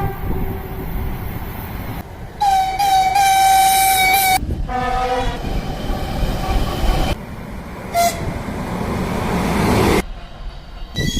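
2M62 diesel locomotive hauling a passenger train past, sounding its horn: a long blast, then a shorter one at a different pitch, and a brief toot a few seconds later, over the steady noise of the passing train.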